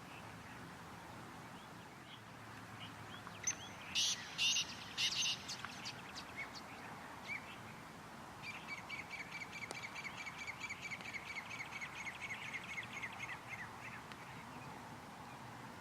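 Birds calling: a few short, harsh hissing calls, then a rapid chattering trill of repeated notes lasting about five seconds.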